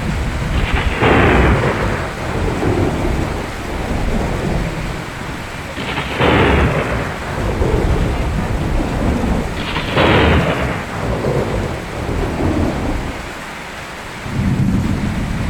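Steady rain falling during a thunderstorm, with a low rumble of thunder throughout and three sharper crashes about four seconds apart.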